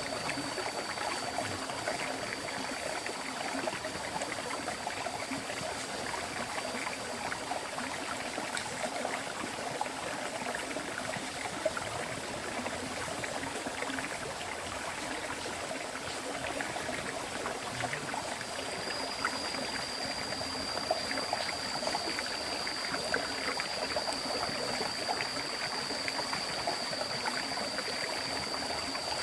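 River water flowing steadily. A thin, high, steady whine sits above the water, stopping about eight seconds in and coming back about ten seconds later.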